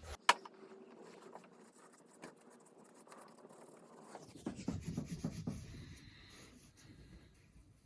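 Small winch parts being handled on a workbench: a sharp click just after the start, then faint scratching and rubbing, with a short run of light knocks and rustles about halfway through.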